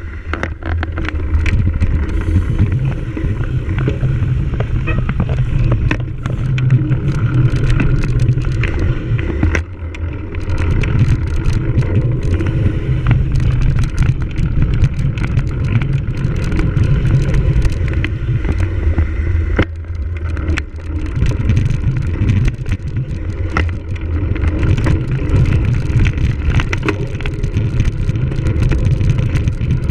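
Cyclocross bike ridden hard over rough dirt and grass: a steady rumble of wind on the microphone and tyre noise, with frequent sharp clicks and rattles from the bike's frame and drivetrain.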